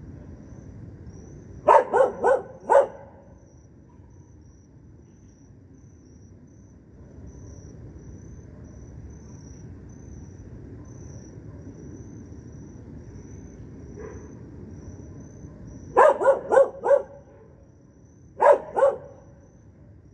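A dog barking in three short runs: four quick barks, then after a long pause four more and two more. Underneath, crickets chirr steadily with a high-pitched trill, over a low background rumble.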